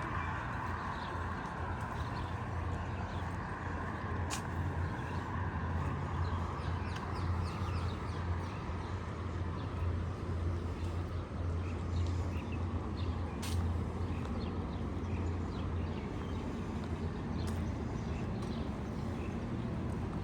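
City street ambience: a steady low traffic rumble with faint bird chirps and a few sharp clicks.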